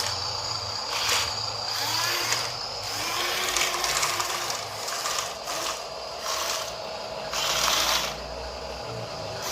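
Small electric motors and gearing of a Huina RC dump truck whirring, starting and stopping repeatedly in short bursts, with a faint steady whine underneath.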